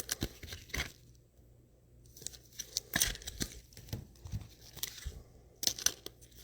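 Trading cards and their packaging being handled: intermittent rustling, crinkling and light clicks, with a quiet pause about a second in.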